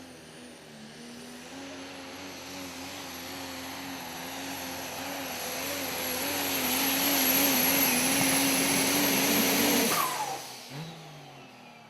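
Super stock diesel pulling truck running at full throttle under load with a high steady whistle over the engine, growing louder for about eight seconds. About ten seconds in it cuts off suddenly, leaving a short falling whine as the throttle is let off at the end of the pull.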